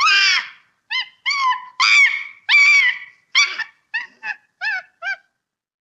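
An animal call sound effect: a run of about ten high-pitched calls, each falling at its end, getting shorter and quicker toward the end before stopping.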